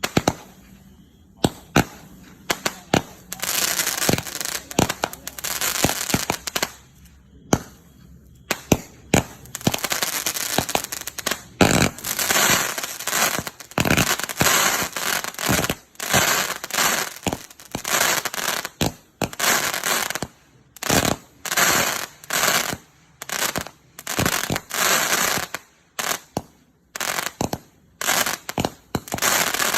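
Consumer firework battery (cake) firing: dozens of sharp bangs, some in quick runs, with stretches of continuous rushing noise between them.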